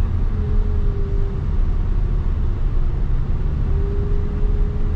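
Car engine held in first gear and road rumble heard from inside the cabin as a steady low drone, with a faint whine that comes in twice, near the start and again near the end.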